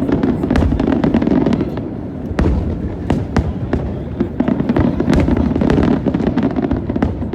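Fireworks display: a rapid, unbroken run of bangs and crackles over a steady low rumble.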